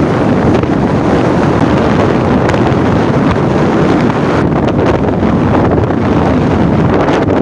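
Steady, loud rushing of a waterfall, mixed with wind buffeting the microphone.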